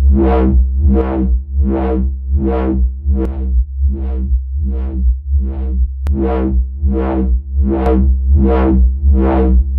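A held dubstep-style synthesizer bass note from a Pigments patch built on an FM bass sample, its resonant low-pass filter swept open and shut by an LFO in a steady wah-like wobble about one and a half times a second, with distortion and wave folding added for grit.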